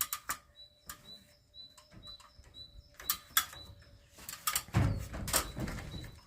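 A small bird calling with a short high chirp about twice a second, over scattered sharp clicks and knocks and, near the end, a low rumble with knocks from handling.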